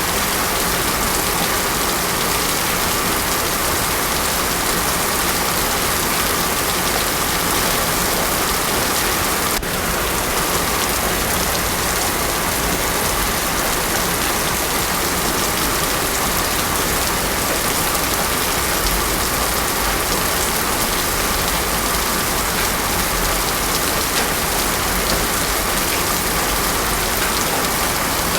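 Heavy rain falling steadily on a road, a dense even hiss with no thunder.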